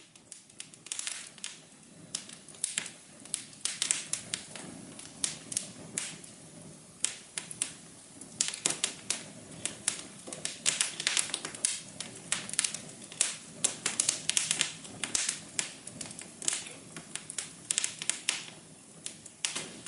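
Wood fire crackling: irregular sharp pops and snaps, several a second, over a soft hiss.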